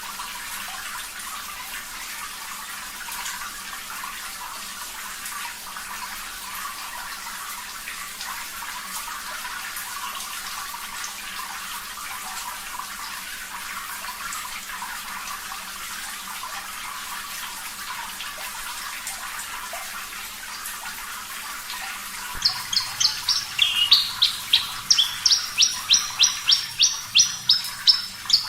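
Steady sound of running water, then about 22 seconds in a Javan bush lark starts singing over it: a fast series of sharp, high repeated notes, about three to four a second.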